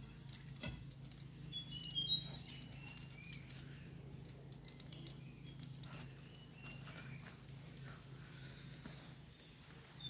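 Quiet outdoor ambience with a few short, high bird chirps clustered about two seconds in, over scattered faint clicks and rustles and a steady low hum.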